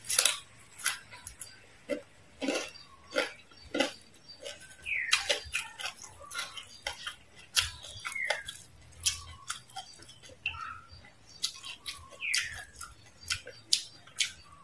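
Close-miked eating sounds: crunching and chewing of crispy deep-fried frog, with wet mouth smacks and clicks at irregular intervals and a few short squeaky glides falling in pitch.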